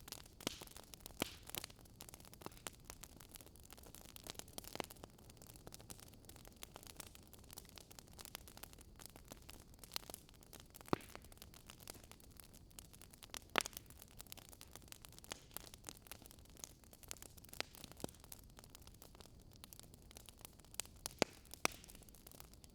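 Wood fire crackling, with irregular sharp pops and snaps over a soft low hiss of burning logs.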